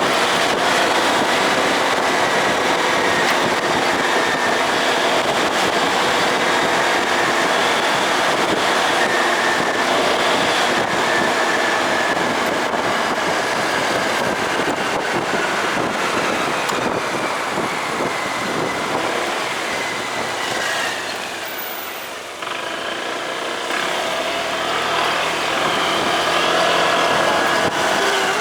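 Motorcycle being ridden, its engine running under a steady rush of wind and road noise. About twenty seconds in, the engine note falls and the sound dips briefly, then picks up again.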